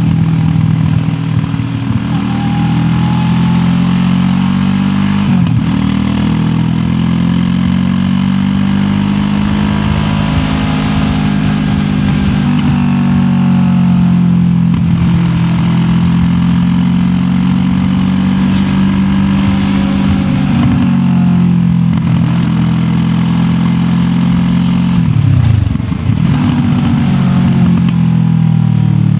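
QJ Motor SRT 700X parallel-twin motorcycle engine under way, heard from the rider's backpack with wind rush. Its pitch climbs and sags with the throttle, breaking off briefly a few times as gears change or the throttle closes, with a quick dip and rise near the end.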